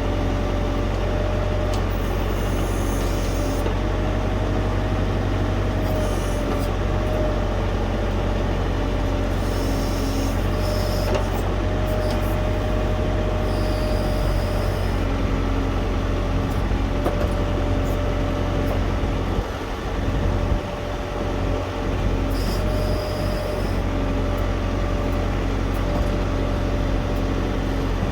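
Diesel tractor engine running steadily under work, with a steady whine over its deep hum; the engine note dips briefly about twenty seconds in.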